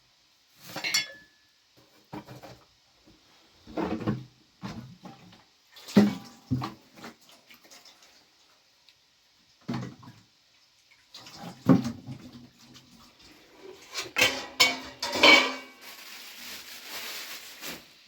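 Pots and utensils being handled: irregular clinks and knocks, some of them ringing briefly, with a steady hiss over the last couple of seconds.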